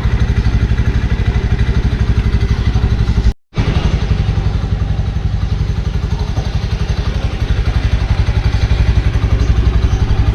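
Motorcycle engine running steadily with an even, rapid pulsing beat, cut off briefly about three seconds in before carrying on the same.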